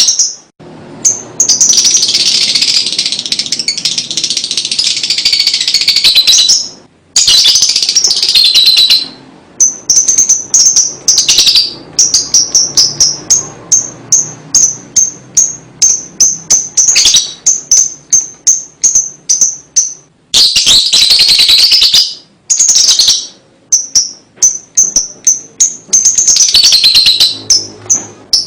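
Lovebird chattering (ngekek) in long shrill trills, alternating with runs of short, sharp repeated ticking notes about two a second.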